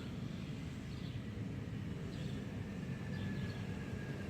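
Outdoor background: a steady low rumble of distant traffic, with a few faint bird chirps.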